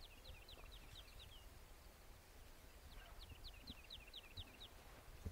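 A small songbird singing faintly: two short phrases, each a quick run of about six falling notes, over low outdoor rumble. A short knock comes right at the end.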